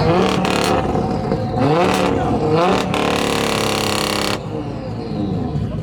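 Car engine being revved in short blips that rise and fall, then held high for about a second and a half before cutting off suddenly, dropping back to a lower running rumble.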